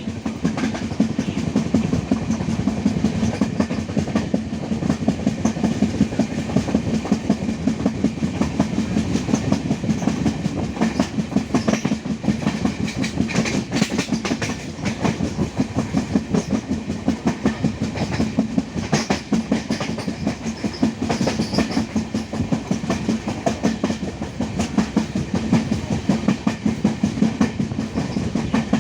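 Passenger train running steadily along the line, heard from aboard: a continuous rapid clatter of the carriage wheels on the track, with the coach's low rumble underneath.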